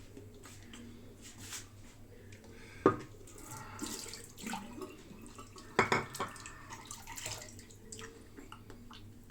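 Water running and splashing at a sink in short spells, with two sharp knocks, one about three seconds in and one about six seconds in.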